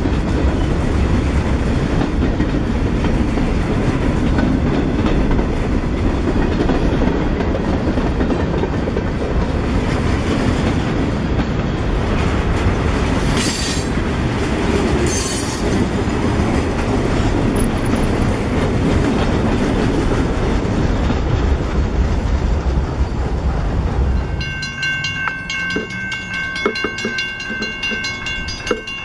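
Loaded freight train of hopper cars rolling past close by: a loud, steady rumble and rattle of wheels on rail, with two brief high-pitched squeals about halfway through. After a cut near the end, a grade-crossing warning bell rings rapidly with the gates down.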